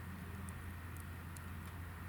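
Hinoki (Japanese cypress) firewood burning in a fire pit, with a few sharp crackles over a steady low rumble.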